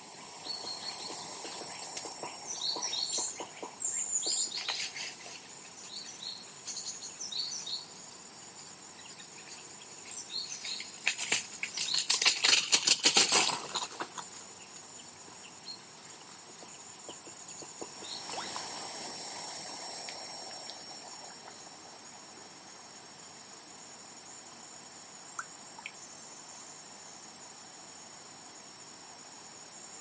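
Small birds chirping in short high calls over a steady high hiss, with a loud dense crackling rustle around the middle and a softer rush a little later.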